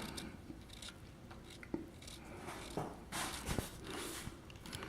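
Quiet room tone with a few faint clicks and a brief soft rustle.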